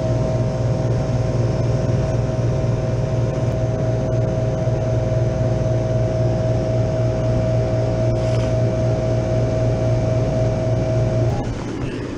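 Refrigeration condensing unit of an open deli cooler running, compressor and fan giving a steady low hum with a steady whine over it, the cooler pulling its temperature down again. The hum drops off abruptly near the end.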